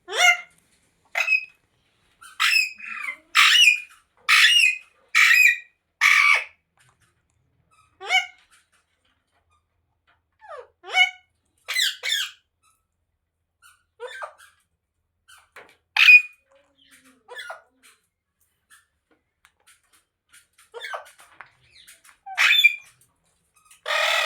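Ringneck parrot giving short, harsh squawks: a quick run of five or so loud ones a few seconds in, then scattered single calls with gaps between them.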